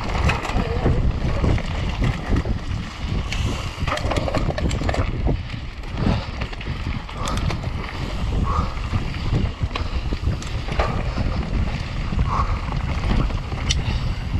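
Wind buffeting a rider-mounted action camera's microphone during a fast mountain-bike descent, a steady loud rumble broken by many short knocks and rattles from the bike over rough ground.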